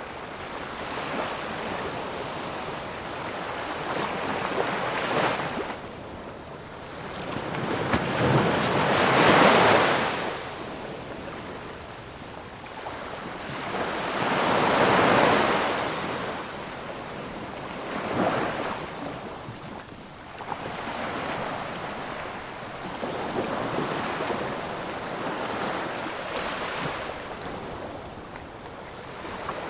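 Ocean waves breaking and washing up the shore in slow surges, the loudest swells about nine and fifteen seconds in.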